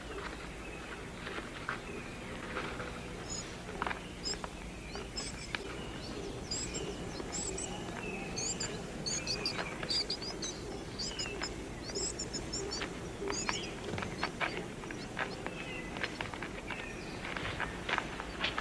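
Rainforest ambience: many short, high chirping calls come in clusters through the middle, over scattered clicks and ticks and a low steady hum.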